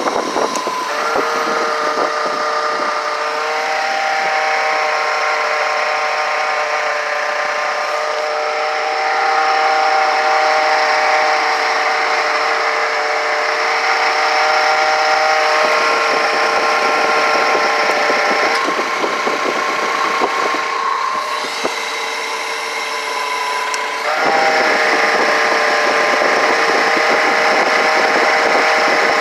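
Car engine running at a steady speed with a whine, its pitch stepping slightly up or down a few times: around 4, 9, 16 and 24 seconds in.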